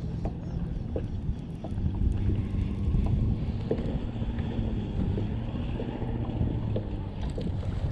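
Wind buffeting the microphone as a steady low rumble on an open kayak, with a few small light ticks and taps.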